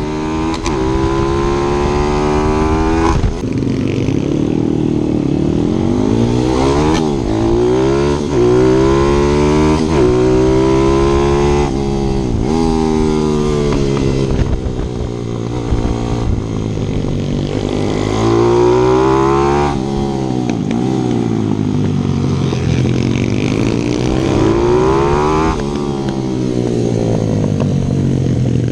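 Single-cylinder 155 cc pit bike engine ridden hard on track, revving up through the gears and dropping off sharply on shutting the throttle, several times over.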